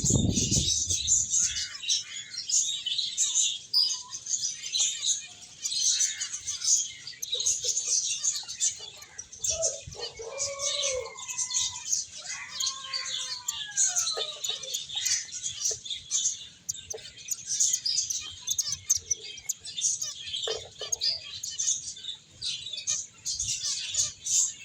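A flock of small pet finches chirping, dense, rapid, high-pitched chirps overlapping without pause.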